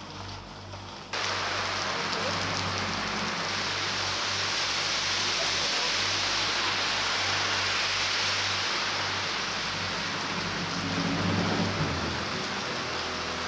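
Heavy rain pouring down onto a fabric parasol overhead and the street, a loud, steady hiss that starts abruptly about a second in.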